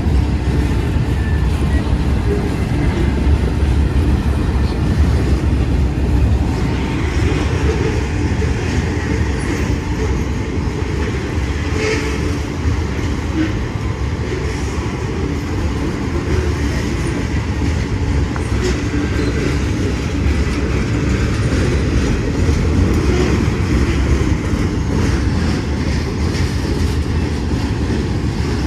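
Freight train cars rolling past in a steady rumble, with occasional clicks from the wheels over the rails.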